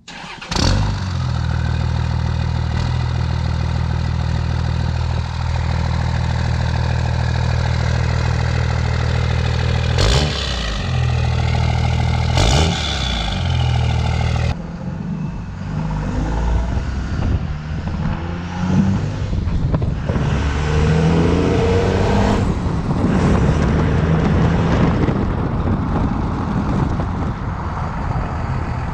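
Dodge Ram's 24-valve Cummins inline-six turbo diesel with a 4-inch straight-pipe exhaust, starting up and idling loud, with two quick revs about 10 and 12 seconds in. About 15 seconds in the sound changes abruptly, and the engine revs up and down repeatedly.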